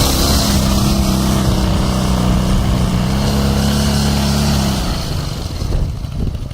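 Ural motorcycle's flat-twin engine running at a steady speed; its note drops away about five seconds in.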